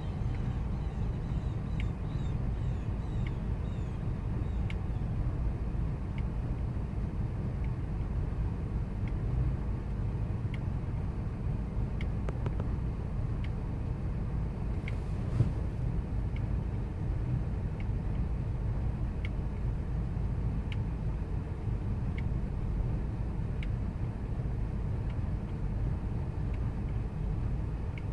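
The 5.4-litre V8 of a 2000 Ford Expedition idling with a steady low rumble, a faint tick about every second and a half; the idle is rough.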